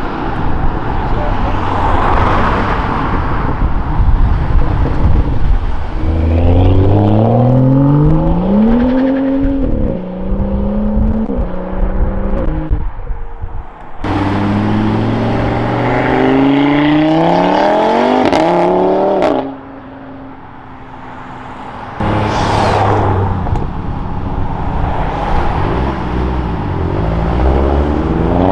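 Modified cars accelerating away one after another, their engines revving hard and climbing in pitch through the gears, with short breaks at the gear changes. The sound jumps abruptly twice, from one car to the next.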